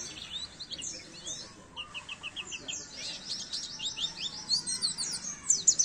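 White-eye (pleci) song: fast, high chirps sweeping downward in quick runs, with a short string of evenly spaced notes about two seconds in, and denser, louder chirping toward the end.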